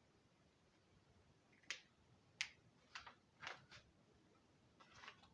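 Faint, short taps and quick scratching strokes of a drawing tool on paper, about half a dozen spread over the last few seconds.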